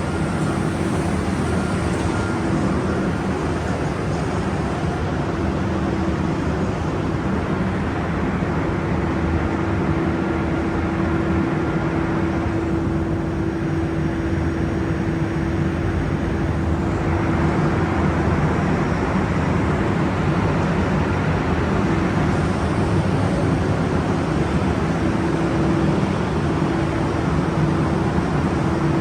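A machine's engine running steadily with a constant low drone and hum; the higher hiss thins for a few seconds midway.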